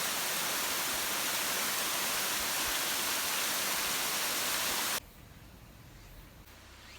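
Waterfall: a steady, loud rush of falling water that cuts off abruptly about five seconds in, leaving only a faint hiss.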